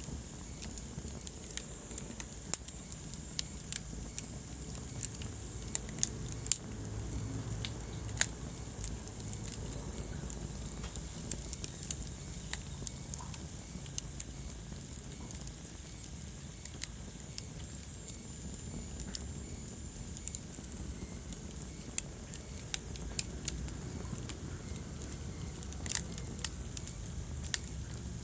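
Wood fire crackling in a fireplace: irregular sharp pops and snaps, a few much louder than the rest, over a steady low rumble of burning.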